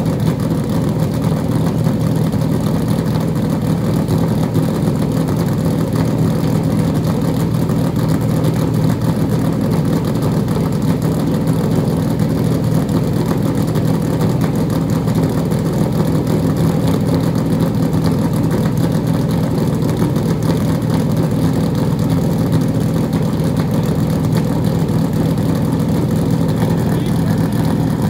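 NASCAR race car's V8 engine idling steadily while it warms up, a loud, even, low running note that holds without revving.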